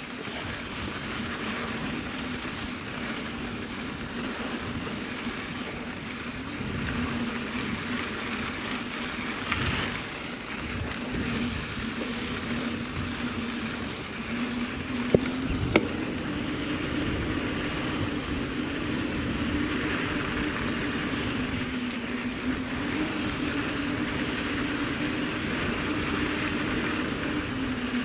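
Mountain bike rolling along a dirt trail: a steady crunch of tyres on grit with a low hum that rises slightly in pitch about halfway, and two sharp knocks in the middle.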